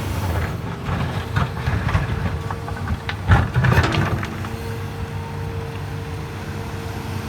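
Hydraulic excavator's diesel engine running steadily, with a burst of knocks and rattling about three seconds in as a load of wet laterite is dumped into the nearly full truck bed.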